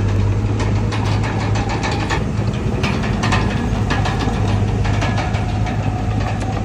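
Komatsu D31PX bulldozer's diesel engine running steadily with a deep hum, under a rapid clatter of clicks and knocks.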